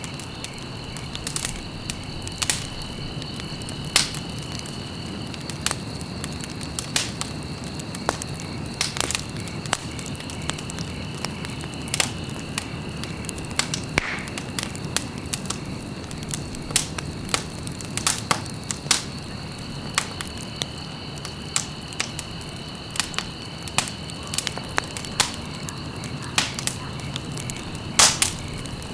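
Wood fire crackling in a fireplace: irregular sharp pops and snaps over a steady low rush of burning, with a thin steady high tone underneath.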